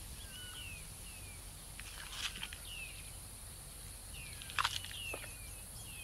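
Short high chirps that slide down in pitch, several times over, from a bird in outdoor ambience, with a couple of sharp rustling clicks about two and four and a half seconds in.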